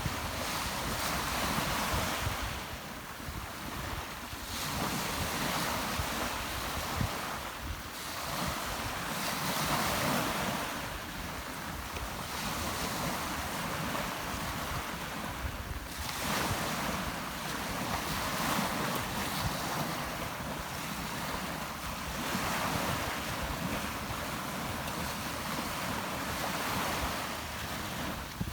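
Rough Mediterranean sea: waves breaking on the shore in a continuous rushing wash that swells every several seconds, with wind buffeting the microphone.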